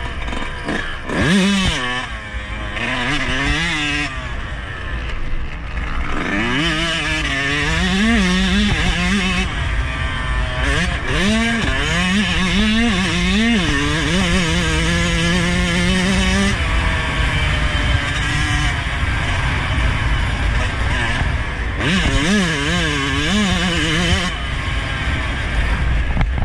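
2021 Yamaha YZ125's two-stroke single-cylinder engine being ridden hard, its pitch climbing and dropping again and again with the throttle, over a constant rushing noise.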